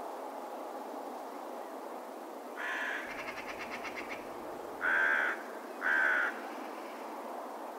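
A crow calling: a short call, then a rapid rattle lasting about a second, then two loud harsh caws about a second apart, over a steady background hiss.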